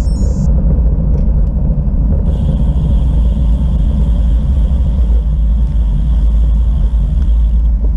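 Wind rumbling steadily on the microphone of a camera riding along on a moving bicycle, with a thin hiss of tyre and road noise over it.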